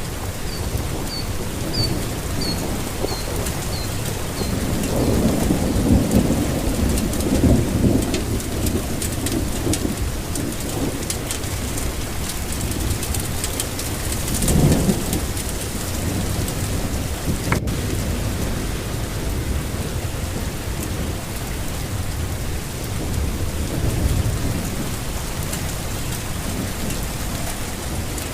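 Steady rain falling, with low thunder rumbling in swells: a long roll from about five seconds in to about eight, and a shorter one near the middle.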